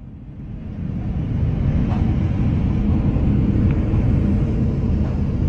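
Hurricane-force wind buffeting the microphone, a low, rough rumble that builds over the first second and then holds steady.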